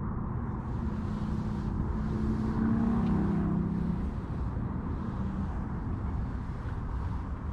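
Steady low rumble with a distant engine hum that swells from about a second in, is loudest around three seconds and fades away a second or so later.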